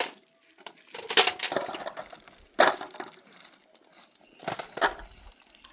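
Sharp cracking, crunching impacts, three strong ones a second or more apart, with rustling and crackling between them.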